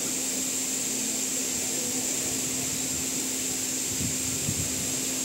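Steady running noise of a passenger train heard from an open coach door as it travels along the track, with a few low knocks about four seconds in.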